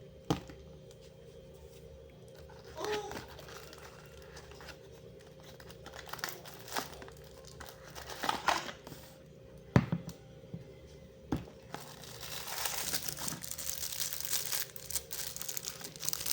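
Crinkling and handling noises, with scattered clicks and one sharp knock, over a faint steady hum. From about twelve seconds in a rushing hiss grows louder.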